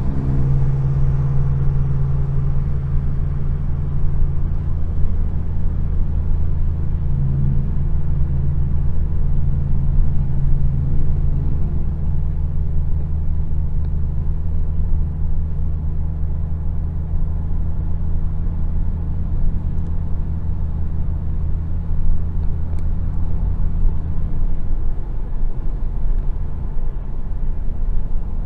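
Car engine running steadily, a low even drone that eases off near the end.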